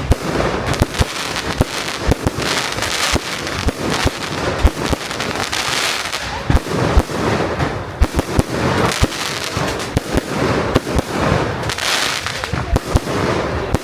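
Fireworks display: a dense, irregular run of sharp bangs and crackles, several each second, continuing throughout.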